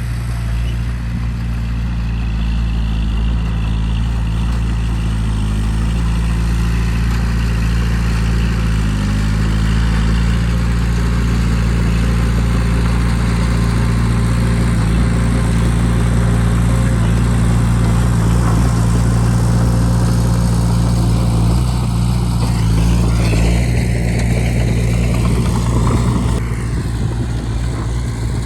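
Bulldozer diesel engine running steadily under working load, a deep continuous drone that swells slightly midway.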